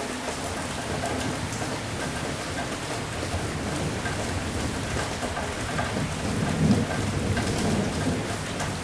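Steady heavy rain hissing, with a low rumble of thunder that swells in the second half and peaks about two-thirds of the way through.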